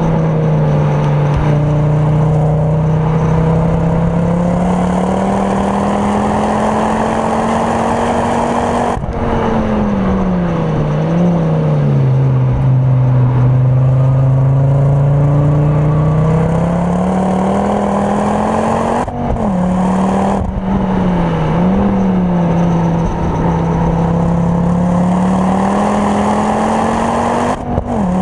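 Ford Focus RS Mk2's Mountune-tuned turbocharged 2.5-litre five-cylinder engine with a full Milltek exhaust, driven hard on track and heard from inside the cabin. Revs climb, drop sharply about nine seconds in and stay low through a slow corner, then climb again with brief dips at gear changes around twenty seconds in and near the end.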